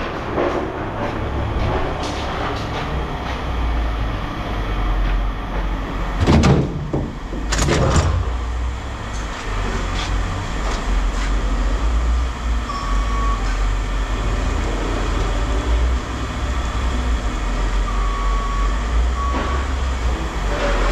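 Steady low rumble with two loud knocks about six and eight seconds in.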